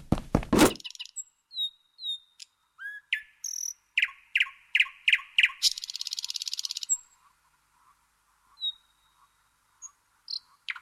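Birdsong: scattered high chirps and whistled notes, a run of about five quick repeated notes, then a rapid high trill about six seconds in. A steady-beat music cue cuts off within the first second.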